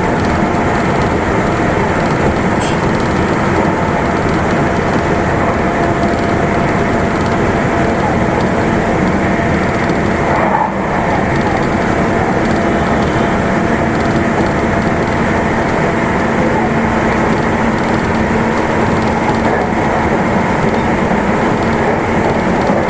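Meitetsu limited express train running at speed, heard from inside the car: a steady rumble of wheels on rail with faint steady tones from the running gear, and a brief dip in the noise about eleven seconds in.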